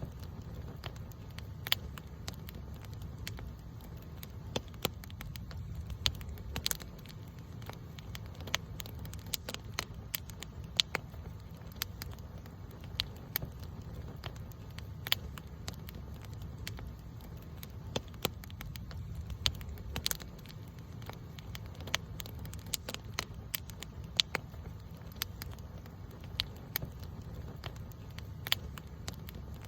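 Wood campfire burning, crackling and popping irregularly over a low steady rumble of flame.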